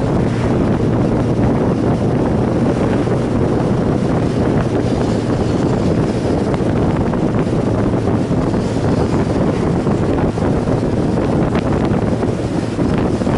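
Loud, steady wind rushing over the microphone of a camera on a motorcycle riding at speed.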